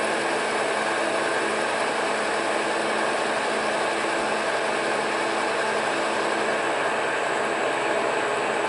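Monarch metal lathe running steadily at about 750 RPM under power feed while a boring bar takes a cut inside the bore.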